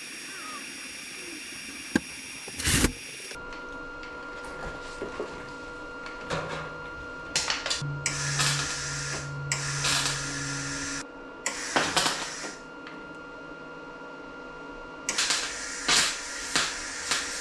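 Electric welder filling holes in car sheet metal with weld, in several separate bursts of a second or a few seconds each, with pauses between them. A couple of sharp clicks come early in the sequence.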